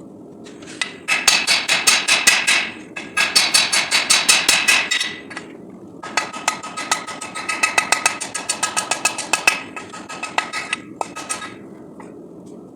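Hand hammer forging 5160 steel on an anvil: quick runs of ringing blows, about five a second. There are three runs with short pauses between them, then a few scattered strikes that taper off near the end.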